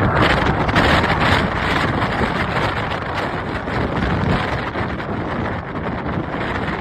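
Strong gusty wind buffeting the microphone, mixed with the rushing noise of an airliner's jet engines. The noise is loudest in the first two seconds, then slowly eases.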